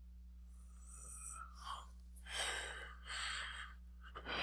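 A man breathing out audibly, sighing three times, over a steady low electrical hum.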